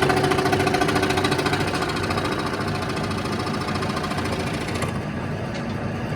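A woodworking power tool running with a fast, even buzzing rattle. The rattle thins out about five seconds in and the level slowly falls.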